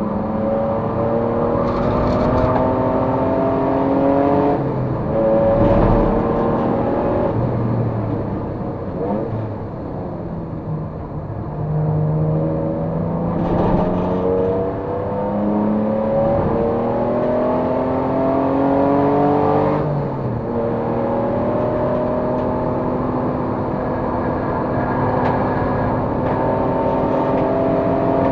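Race car engine under load, its note climbing slowly and falling back sharply several times as it is shifted or lifted, then climbing again.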